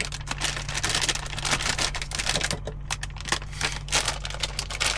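Meal-prep clatter: rapid, irregular clicks and light knocks as small potatoes and vegetables are handled and put into the pot.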